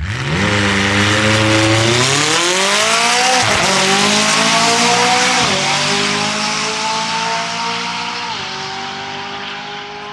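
A car launching hard off the drag-strip start line, its engine revving up through three quick gear changes, each a short dip in pitch, as it pulls away and slowly fades down the track.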